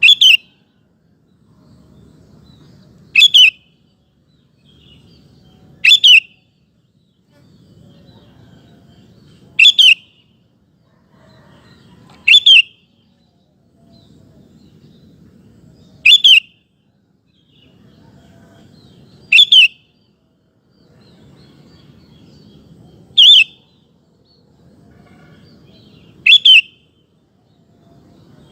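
Sooty-headed bulbul (kutilang) calling: short, sharp, high calls repeated at a steady pace of about one every three seconds, several of them given as quick doubles. A faint low rumble fills the gaps between calls.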